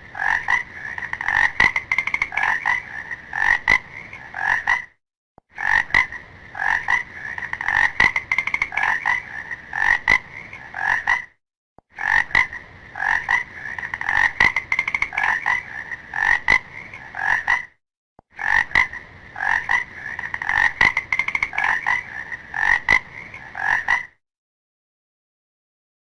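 Frog croaking in rapid runs of pulsed calls. The same stretch of recording plays four times over with short gaps between.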